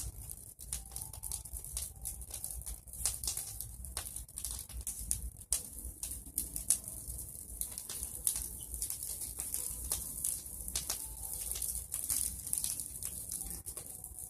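Bonfire of pruned tree branches crackling, with irregular pops and snaps over a steady hiss.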